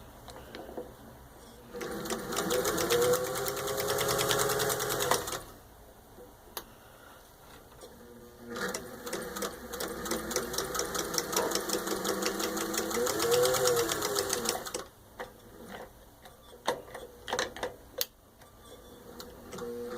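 1940 Singer 201-2 sewing machine stitching through four layers of thin leather. It runs in two spells of a few seconds each, with the motor's pitch rising and falling as the pedal speeds it up and slows it down. A few sharp clicks follow near the end.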